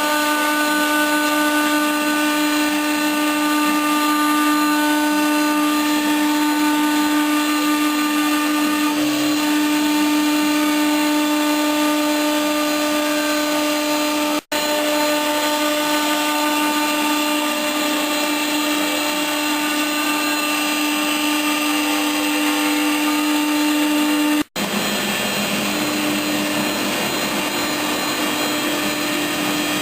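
CNC router spindle motor running at a steady whine. The sound cuts out for an instant twice, about midway and near the end.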